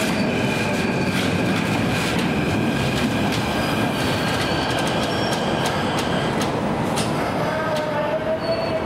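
Keikyu Line local train moving slowly along the platform: a steady running rumble with several steady high-pitched tones over it and scattered sharp clicks from the wheels.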